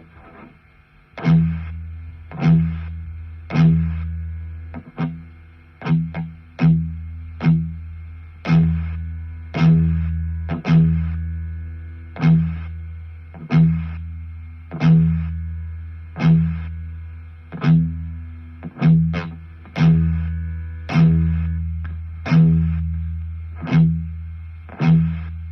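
Electric guitar played through a Positive Grid Spark Mini amp: a low note picked about once a second, each one ringing out and fading, over a steady low drone that stays between the notes. It is played to show a sound problem the owner hears in the amp, which Positive Grid said was working as expected.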